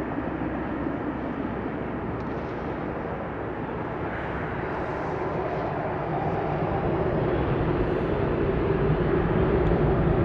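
Jet airliner engines making a steady rumble that grows gradually louder.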